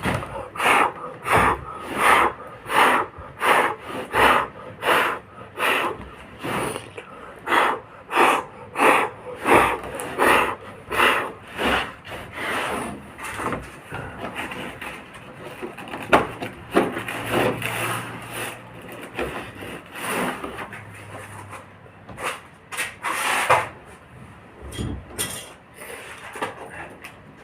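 Rhythmic back-and-forth rubbing strokes by hand on a boat hull, about two a second, as in polishing. After about twelve seconds the strokes become slower and irregular.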